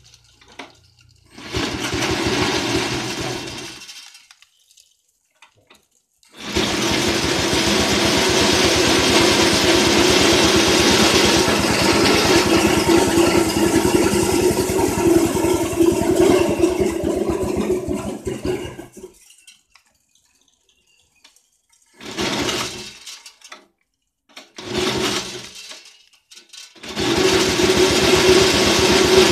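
Soybean skin-peeling (dehulling) machine running: a steady motor hum under a loud hiss of noise. It comes in several stretches with silent gaps between them, the longest about twelve seconds.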